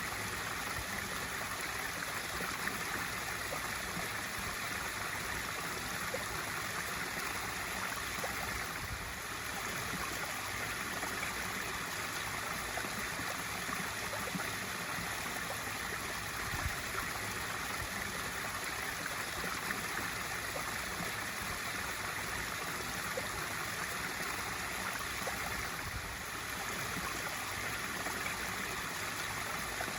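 Swimming pool waterfall feature pouring steadily into the pool, a constant splashing rush of water.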